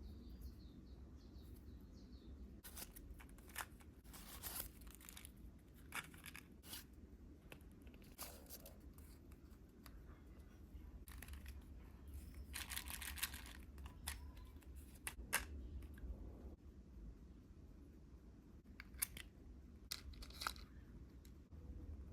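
Hands handling small miniature objects: scattered light clicks and taps, with a few short bursts of tearing or rustling like paper or plastic packaging, over a low steady hum.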